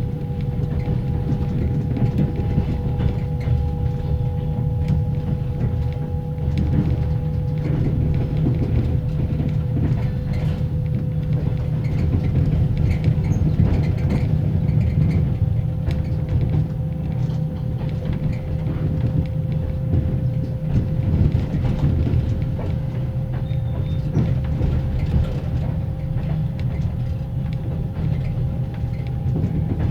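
Passenger coach's axle-driven generator whining with a steady tone that creeps slowly up in pitch as the train gathers speed. Under it is the heavy low rumble of the running gear and the knocking of the wheels, heard from inside a closed compartment.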